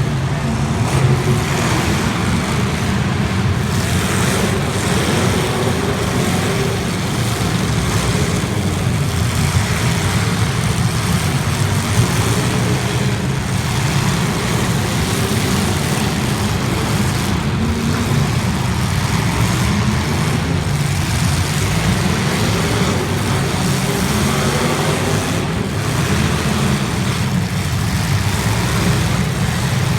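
Demolition derby cars' engines running loud and steady, their pitch drifting up and down as they rev.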